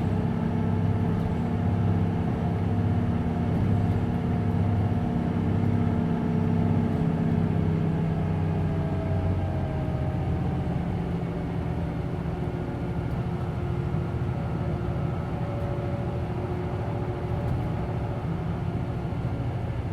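A Hino Blue Ribbon City Hybrid city bus heard from inside the cabin: its diesel engine runs with a steady, pulsing drone. About eight or nine seconds in, the engine note changes and eases off slightly, leaving a lower drone with faint, slowly gliding whine tones.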